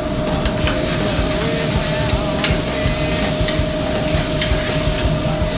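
Sausage, chicken and onions sizzling in a skillet over a gas burner, with a few light clicks of tongs against the pan. A steady hum runs underneath.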